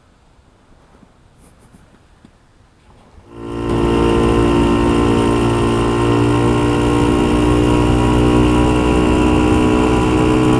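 Motorcycle engine running at a steady speed, coming in suddenly about three seconds in after a faint, quiet stretch and holding one even pitch.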